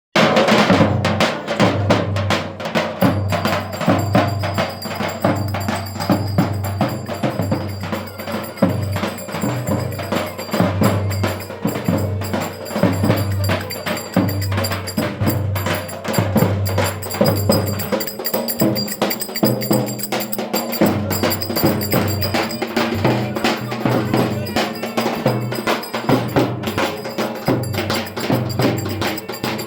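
Turkish folk dance music (oyun havası) with a steady, driving drum beat and busy percussion strokes.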